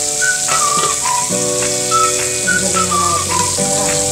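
Breaded chicken deep-frying in oil in a wok, giving a steady sizzle. Over it plays background music: a high, whistle-like melody over sustained chords that change every second or so.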